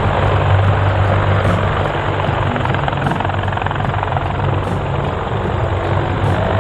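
US Navy MH-53E Sea Dragon helicopter in flight, its three General Electric T64 turboshaft engines and main rotor making a loud, steady noise with a strong low hum.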